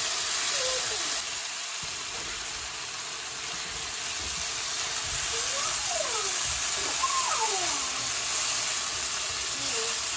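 Onions and garlic paste sizzling in hot oil in a wok, stirred with a spatula, with chopped tomatoes added partway. A few short squeaky scrapes rise and fall in pitch, mostly in the second half.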